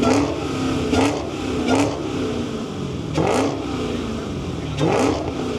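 Car engine revved hard in about five repeated bursts, each rising and then falling back, with the car not moving off: it is stuck, and the driver is taken to have broken the transmission.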